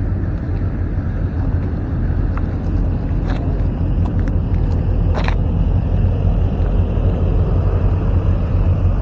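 Steady low rumble of a car driving, heard from inside the cabin, with a few light clicks about three and five seconds in.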